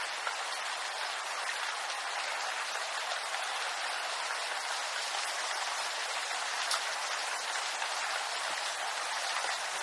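Steady rain falling on bamboo, an even hiss with scattered individual drops ticking on the leaves.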